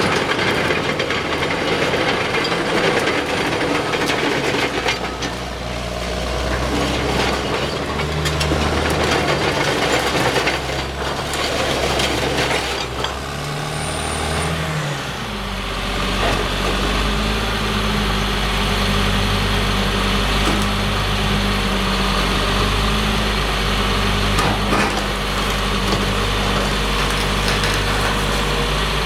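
Caterpillar D6R crawler bulldozer's diesel engine running, with knocks and clatter from the machine working over the first half, then settling into steady, even running from about halfway through.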